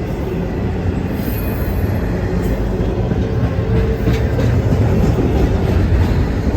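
CSX freight train passing close by: a steady, loud rumble of wheels on rail.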